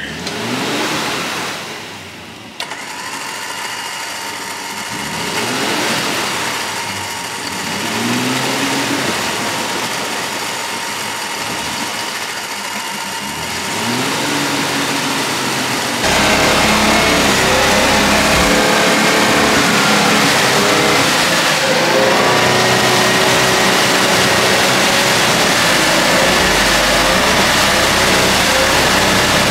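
Nissan Patrol engine revving again and again as the four-wheel drive works to get out of a deep, muddy water hole. About halfway through the sound jumps suddenly louder and stays at that level as the vehicle pushes forward through the water.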